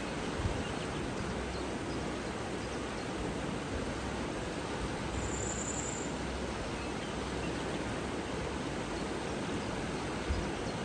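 Steady rush of flowing water, with one short, high-pitched note about halfway through.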